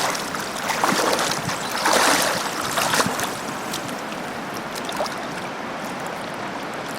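Flowing river water rushing steadily, with several louder surges of noise in the first three seconds.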